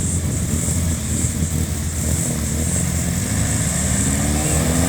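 Old car engine running steadily, its pitch rising over the last second or so as it revs.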